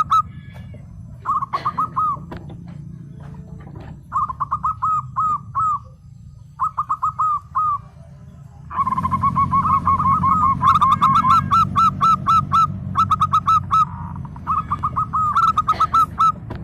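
Zebra dove (perkutut) singing: repeated phrases of quick, staccato cooing notes, with a steady low hum beneath. From about nine seconds in, the phrases come louder and run closer together.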